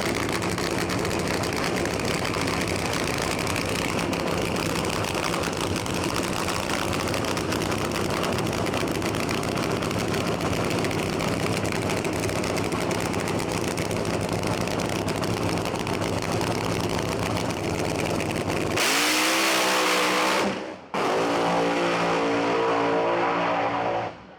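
Nitromethane-burning supercharged V8 of a Mustang funny car running at a steady, rough idle. About nineteen seconds in it jumps to hard revving with a rising pitch, drops out for an instant, then runs high again before cutting off suddenly near the end.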